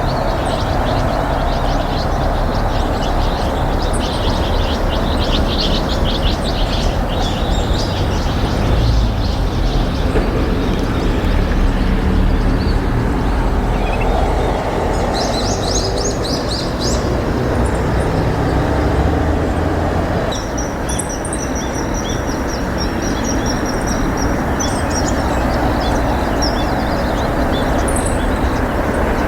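Small birds chirping in clusters of short, high, repeated notes, over a steady low rumble.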